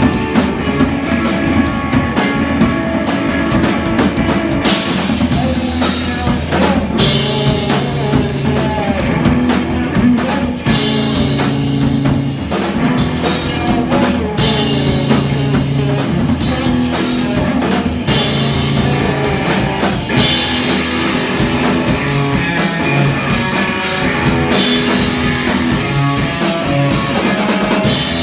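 Rock band playing live, with drum kit, guitar and bass, loud and steady throughout.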